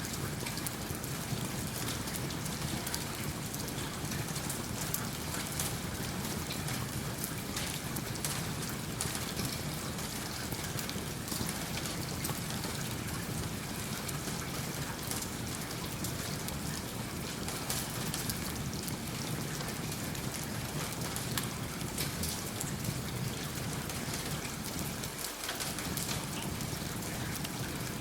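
Steady rain, with many small sharp clicks and pops from a crackling wood fire in a fireplace scattered through it.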